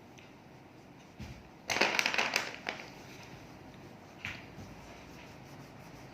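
A brief scratchy rustle, typical of drawing paper being handled or scribbled on, lasting about a second. A soft thump comes just before it, and a single sharp click follows a couple of seconds later.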